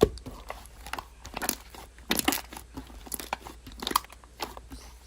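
Slime being squished and stretched by hand, making irregular crackling, popping sounds.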